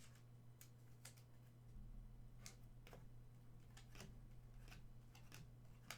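Near silence: faint, scattered light clicks, about one or two a second, over a low steady hum.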